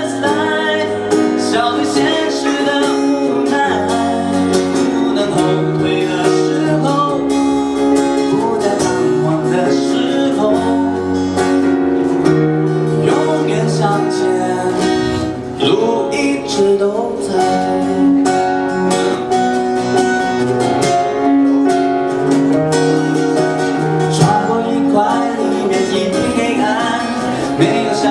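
Live pop song: strummed acoustic guitar accompanying a singing voice, over a steady bass line.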